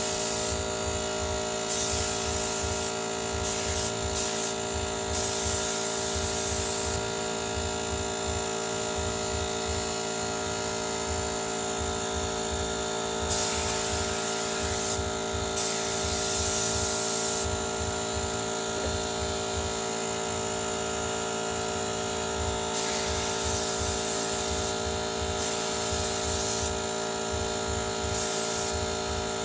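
Motomil 24-litre air compressor running steadily with a low pulsing hum, while air hisses out in short bursts several times, each lasting a second or two.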